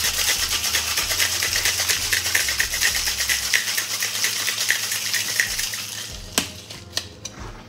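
A tin-on-tin cocktail shaker shaken hard, with ice rattling quickly against the metal. The rattle fades out about six seconds in and is followed by a couple of sharp knocks.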